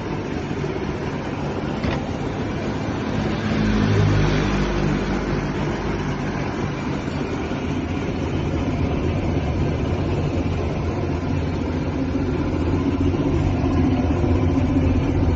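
Suzuki ST20 engine running, with a brief rise in revs about four seconds in, then running steadily and getting slightly louder near the end.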